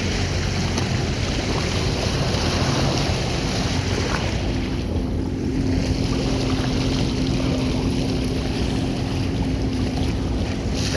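Jet ski engine running steadily over open water, with water rushing and wind buffeting the microphone.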